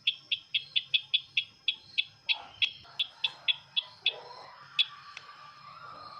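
Sisintar ladang bird call as played for bird luring: a rapid series of sharp chipping notes, about four to five a second, thinning out and stopping about five seconds in. A faint steady high-pitched tone runs underneath.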